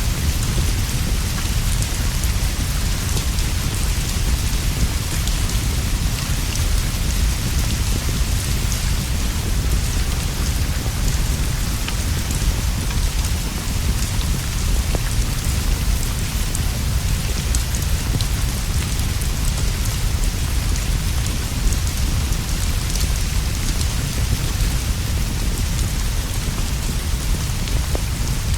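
Steady heavy rainfall falling on leaves and a roof, an even hiss over a constant deep rumble, with scattered faint ticks and pops through it.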